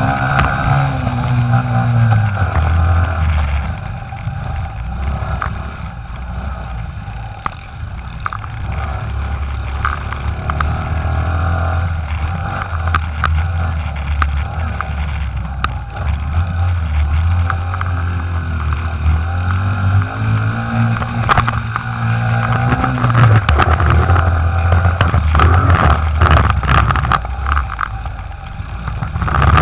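Small pit bike engine running steadily. Its note drops about two seconds in and climbs again, rising and falling, around two-thirds of the way through, with a spell of sharp crackles near the end.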